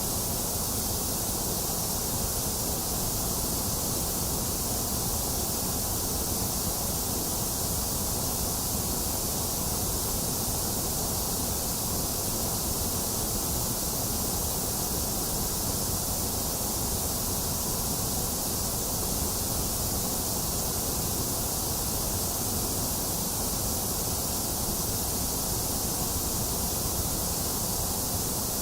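Steady generated white noise: an even, unchanging hiss with no events in it, heavier in the treble and bass with a hollow in the upper midrange.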